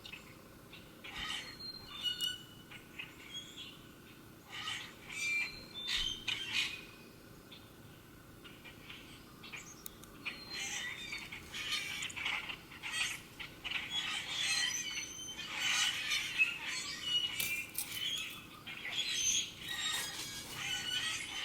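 Small songbirds chirping and calling, scattered at first and building to a busy, overlapping chorus about halfway through.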